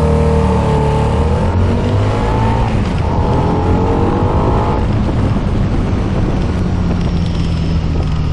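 Harley-Davidson V-Rod's liquid-cooled V-twin under hard acceleration from a standstill. Its note rises, breaking about two and a half and five seconds in at gear changes, then runs steadier at speed under wind noise.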